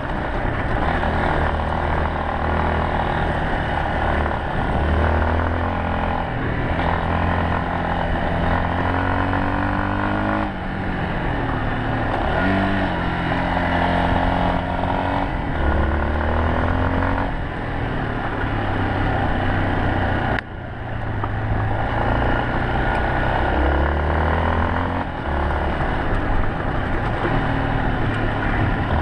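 Yamaha Serow 250's air-cooled single-cylinder four-stroke engine running under way, its pitch rising and falling again several times as the bike accelerates and shifts, over steady wind and road noise. The sound breaks off briefly about two-thirds through.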